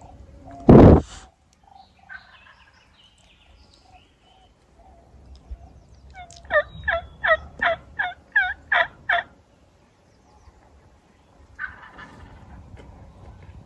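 A run of about nine turkey yelps, evenly spaced over about three seconds. About a second in there is one loud, short burst of noise.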